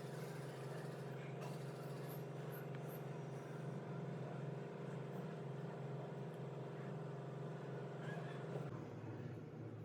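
A steady low mechanical hum with a fixed pitch, shifting slightly near the end.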